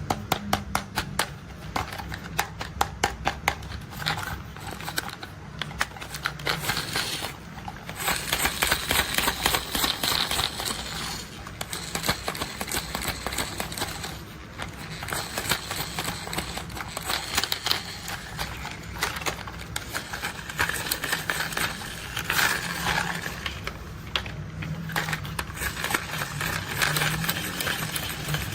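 Toy construction vehicles handled and played with: rapid plastic clicking for the first several seconds, then a denser continuous rattle and clatter, over a steady low hum.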